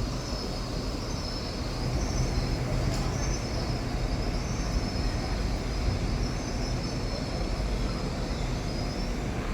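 Passenger train running at a station platform: a steady low rumble with a high, wavering whine over it.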